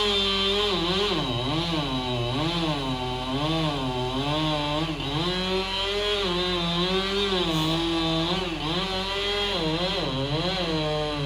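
Chainsaw running and cutting into a tree, its engine pitch rising and falling over and over as the saw is worked through the wood.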